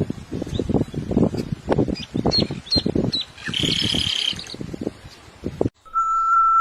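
Bird wings flapping in quick irregular beats, with short high chirps and one held call in the middle. Near the end it cuts off abruptly to a steady high tone.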